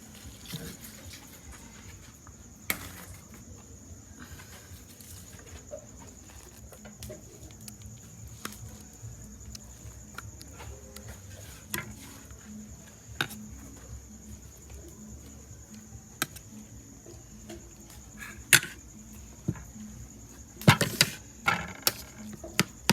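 Crickets chirping in a steady high-pitched drone, with scattered sharp clicks and knocks that come in a quick cluster near the end.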